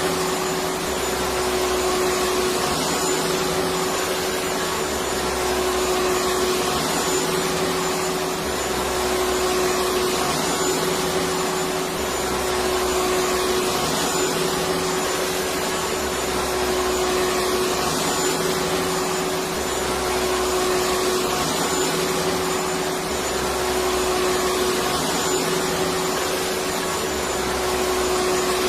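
Electric vacuum cleaner running steadily: an even rush of air with a constant motor hum, and a faint low pulse repeating about every two seconds.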